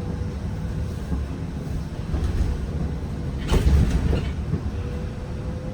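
Zhongtong N12 bus in motion, heard from on board: a steady low rumble with a faint steady whine. About three and a half seconds in there is a louder jolt and rattle, as when the bus goes over a bump.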